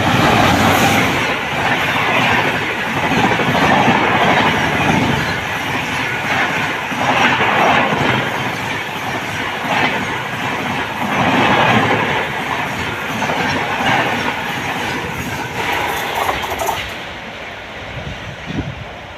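Sealdah Rajdhani Express passing at high speed without stopping: a loud rush of coaches and wheels with a clickety-clack rhythm, swelling and dipping every couple of seconds. It dies down near the end as the train clears.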